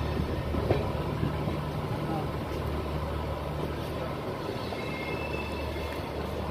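Steady rumble of a moving passenger train's coaches running on the rails, heard from an open coach door.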